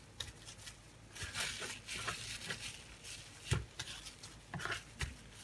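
Plastic cling film crinkling and rustling in the hands as a potato-wrapped sausage is rolled and its ends twisted up, with two soft thumps in the second half.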